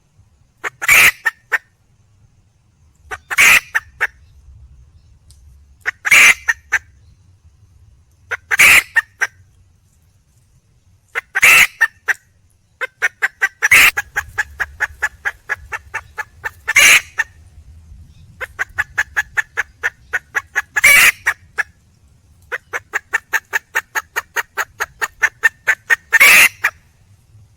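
Wild junglefowl hen cackling: loud, short, sharp squawks every two to three seconds. About halfway through, fast runs of short clucks at several a second fill the gaps. This is the call a hen makes to draw a mate.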